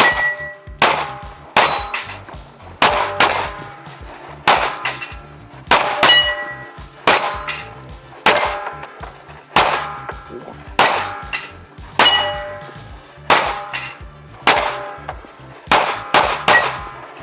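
A timed string of rapid gunshots at steel targets, about two dozen sharp reports half a second to a second apart, with the steel plates ringing with a clang after each hit.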